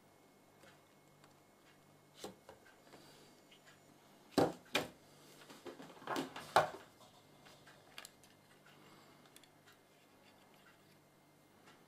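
A few sharp knocks and clicks, the loudest about four and a half and six and a half seconds in, over a faint steady hum.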